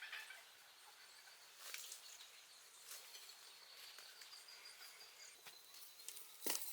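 Quiet ambient noise with a few soft scattered clicks, a sharper click near the end, and a faint thin high steady tone.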